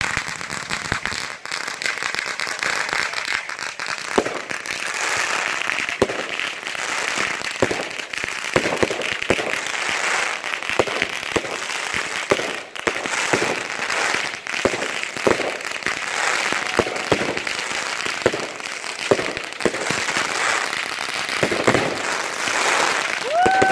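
Consumer fireworks finale: aerial shells going off in rapid, irregular bangs, one after another, over a continuous crackling of crackle and glitter stars.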